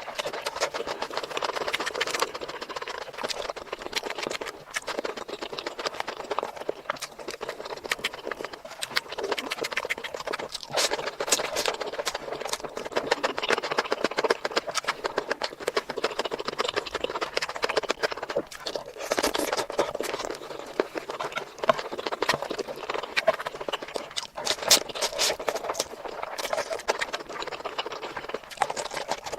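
Close-miked ASMR eating: continuous wet chewing and mouth sounds made up of dense, rapid clicks and smacks.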